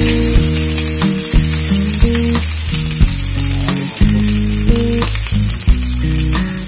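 Chicken livers, hearts and gizzards sizzling steadily as they fry in oil in a stainless steel pan. Under it runs music with deep bass notes and a steady beat.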